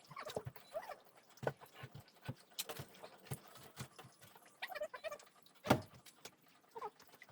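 Scattered, irregular light knocks and clicks of wood and tools being handled, with no power tool running.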